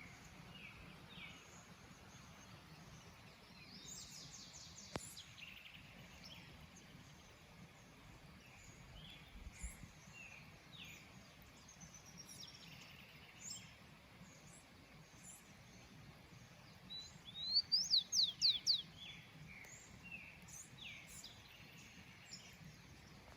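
Several small songbirds chirping and calling over faint background noise, with a buzzy trill about four seconds in and, near the end, a loud run of quick sweeping whistled notes.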